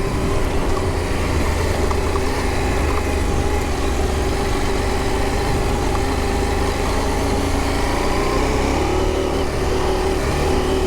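Motorcycle engine running at a fairly steady pitch while riding, over an even rushing noise; the engine note rises a little about eight seconds in.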